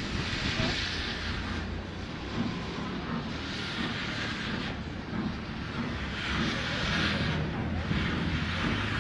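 A locomotive running, with a steady low rumble and hissing surges about every two to three seconds.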